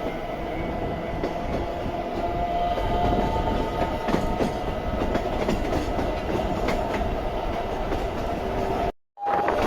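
Narrow-gauge electric train with nose-suspended traction motors running: a steady rumble with a motor whine sliding up and down in pitch, and wheels clicking over rail joints. The sound cuts out briefly near the end and comes back louder.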